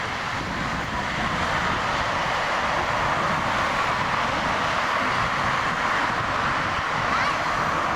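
Steady jet noise from the two GE90 engines of a Boeing 777-200LR climbing away after takeoff, heard as an even rushing hiss.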